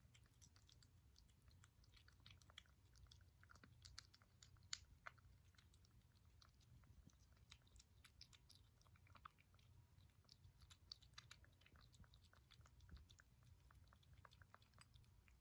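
A kitten chewing and biting its food close to the microphone: a quick, irregular run of small clicks from its mouth, over a faint low hum.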